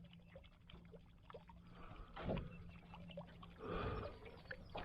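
Faint water sloshing and trickling around a small boat's hull, with light knocks and two soft swells of splashing.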